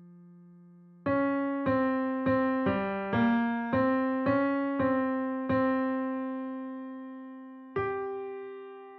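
Background music: a slow electric piano melody of single struck notes that ring and fade, about two a second, then a pause and one more note near the end.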